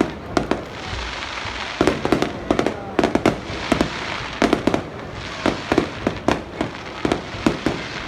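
Fireworks display: many irregular bangs of shells bursting, several in quick succession at times, over a steady background crackle.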